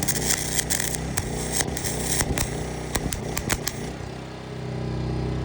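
Small MIG welder's arc crackling and sputtering over the steady run of the portable generator powering it; the arc stops about four seconds in, leaving the generator engine running.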